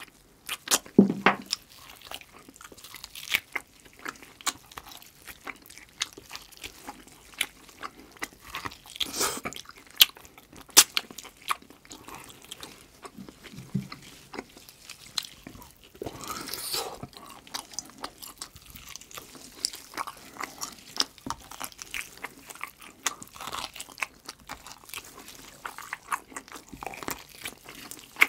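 Close-miked chewing and biting of braised pork trotter (jokbal): irregular mouth clicks and smacks throughout, with a few louder bites along the way.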